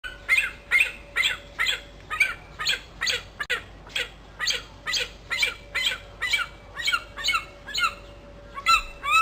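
A bird calling over and over in short, quick calls, about two a second, each sliding in pitch, with a faint steady hum underneath.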